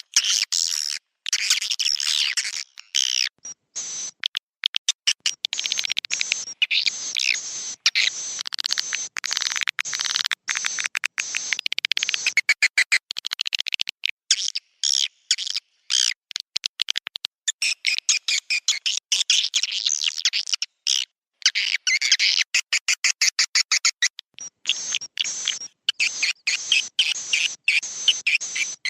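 Swiftlet roosting call ('suara inap'): a dense chatter of many twittering chirps mixed with rapid clicks, chopped by short gaps. This is lure audio played in swiftlet houses to get the birds to settle and roost.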